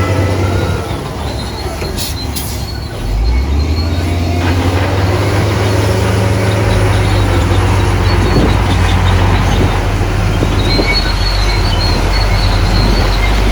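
Heavy diesel earthmoving machinery (dump truck or bulldozer) running loudly, its engine note shifting about three seconds in and again past halfway, with thin high metallic squeals near the end.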